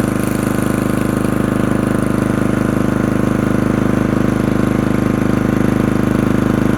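Small generator engine running steadily at an even speed, with a fast regular pulse.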